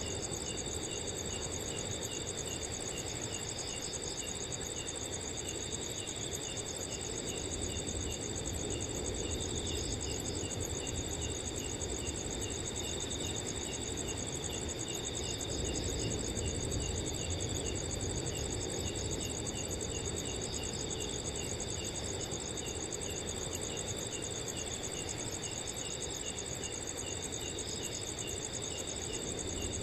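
A chorus of crickets: several trill steadily at different high pitches while one chirps in a regular pulse of about three chirps a second, over a soft, steady wind.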